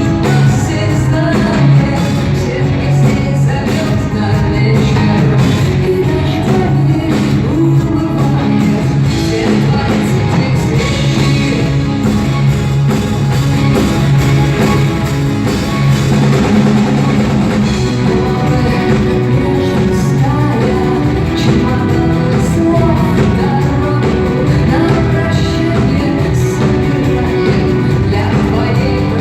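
Rock band playing live with a singer, guitar and drum kit.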